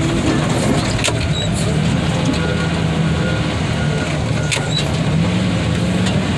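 Diesel engine of heavy equipment running steadily, its pitch rising and falling a little under load, with a sharp metal clank about a second in and another near the end.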